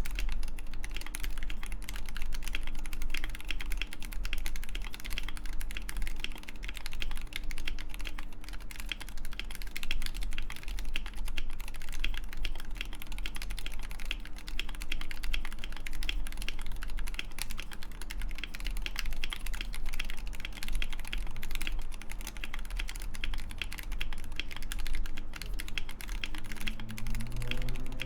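Continuous fast typing on a custom 60% mechanical keyboard: Wooting 60HE internals in a Mekanisk FJELL case, with lubed Gateron Lekker L45 linear magnetic switches on a steel plate, dampened with foam and plate-mounted lubed stabilizers. A dense run of key clicks and bottom-outs at an even level.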